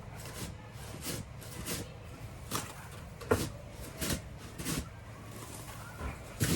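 Short crunching scrapes in packed snow, repeating roughly every three-quarters of a second, from a snow shovel being worked or feet treading through the snow.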